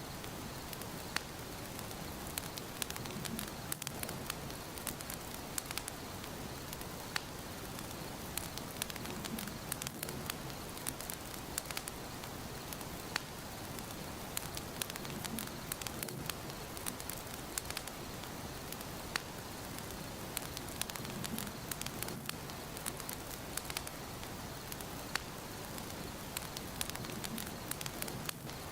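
Wood fire burning in a fireplace: a steady hiss with frequent sharp crackles and pops, and a soft low swell about every six seconds.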